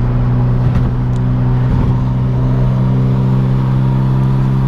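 Car engine running at a steady speed while driving, a continuous low drone that holds one pitch.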